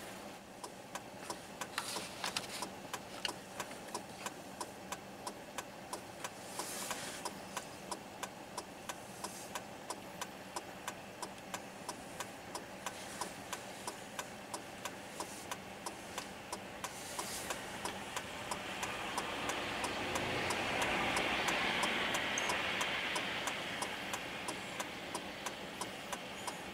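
A vehicle's flasher relay clicking steadily, about two and a half clicks a second, over the vehicle's idling engine. A rushing sound swells about two-thirds of the way in and fades near the end.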